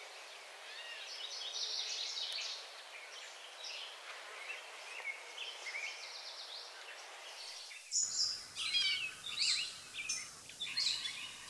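Forest ambience of small birds chirping and singing over a faint background hiss; about eight seconds in the background changes abruptly and the chirps become louder and more frequent.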